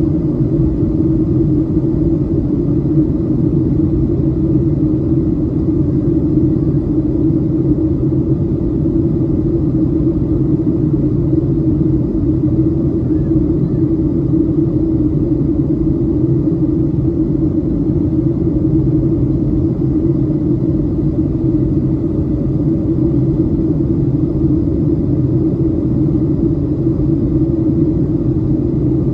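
Steady, loud cabin rumble of a Boeing 737-700 in flight, the hum of its CFM56 engines mixed with airflow noise, holding an even level.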